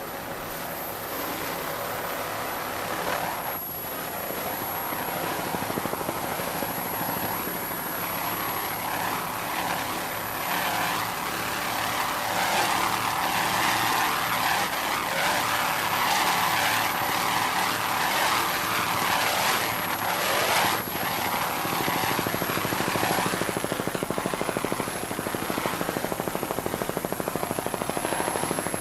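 Helicopter rotor and engine running steadily, growing louder through the middle stretch and easing off again.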